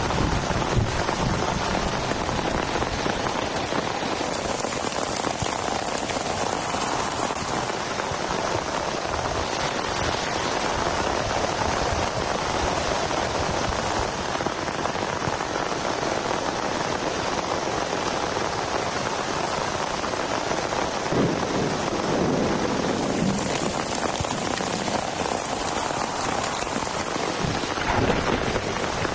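Heavy rain falling steadily, a dense even hiss of drops, with a few brief low rumbles in the last third.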